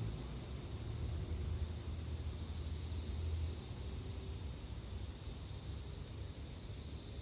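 Japanese bell crickets (suzumushi) singing in a steady, high-pitched ringing chorus. A low rumble underneath fades about three and a half seconds in.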